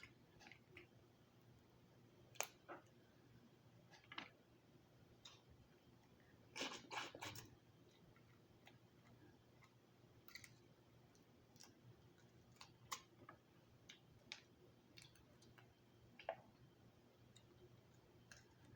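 Faint, scattered clicks and cracks of lobster shell being broken and picked at while eating the legs, with a short run of several cracks about seven seconds in.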